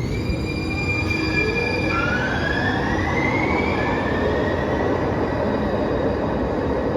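Muni Metro light rail train running through the Central Subway tunnel, with a steady rumble of wheels on rail and an electric whine that rises in pitch over a couple of seconds as the train picks up speed.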